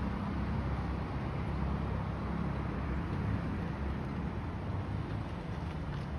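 Audi R8 sports car's engine running steadily at low revs while the car creeps and turns slowly, a constant low rumble with no revving.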